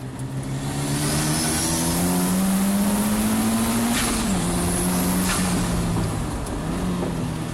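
Turbocharged K20C four-cylinder in a race-prepared 1991 Honda NSX pulling hard under acceleration, its pitch climbing for about four seconds and then dropping sharply at two upshifts. A steady rushing noise runs underneath.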